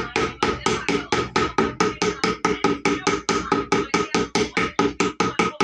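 Rapid, even hammer taps on a metal part of a blender under repair, about five blows a second, each with a short metallic ring.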